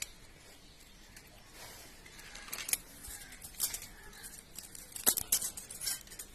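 Scattered light metallic clicks and scrapes of hand tools working the valve rocker of a Pulsar 135LS engine during valve-clearance adjustment, with a cluster of sharper ticks in the second half.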